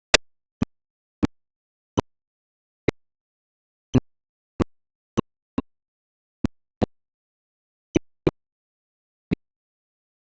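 About fourteen short, sharp clicks at irregular intervals, with dead silence in between.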